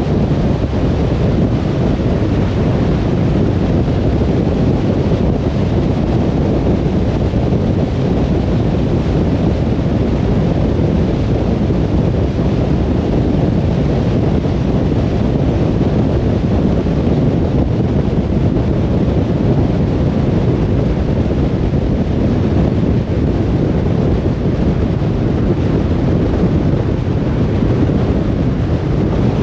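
Steady low rumble of a car driving along the road, with tyre and wind noise.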